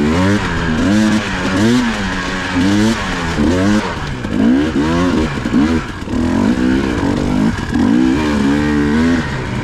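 Dirt bike engine revving up and down repeatedly, its pitch rising and falling about once a second, as a bike works its way over rough, technical ground.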